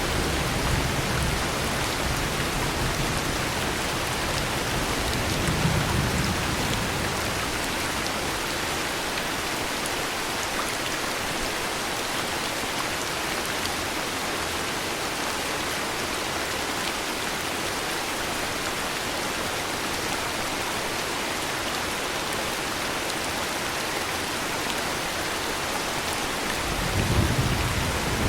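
Heavy rain falling steadily, a continuous hiss. Thunder rumbles low at the start and briefly about six seconds in, then builds again near the end.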